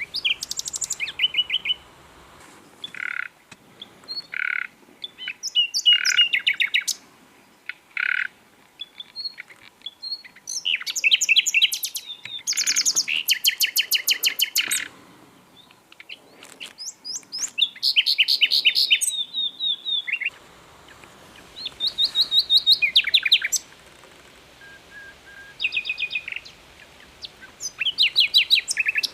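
Common nightingale singing: phrases of fast repeated notes and trills separated by short pauses, with several single low whistled notes in the first eight seconds.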